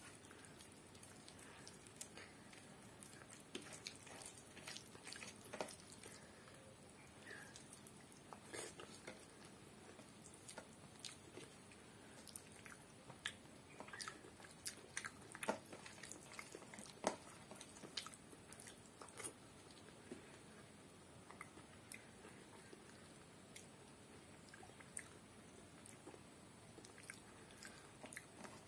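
Faint eating sounds of rice and fish curry eaten by hand: scattered soft clicks and smacks of chewing, with no talking.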